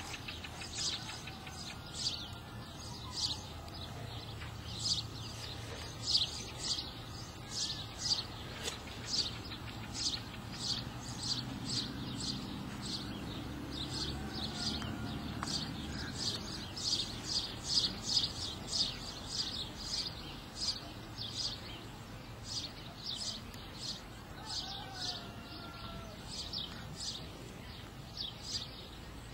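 A bird chirping over and over, short high chirps about two or three a second.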